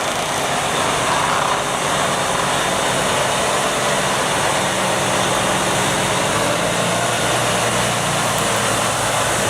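Heavy machine engine running steadily under load, with a dense, unbroken mechanical noise over a low engine hum.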